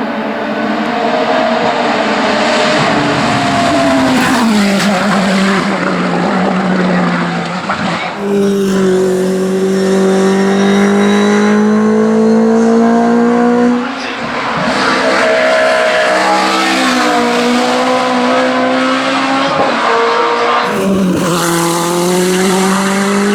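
Hillclimb race cars at full throttle, their engines revving up and dropping back through gear changes as they pass. The sound is loud, with abrupt changes about a third of the way in, near the middle and near the end as one car gives way to the next.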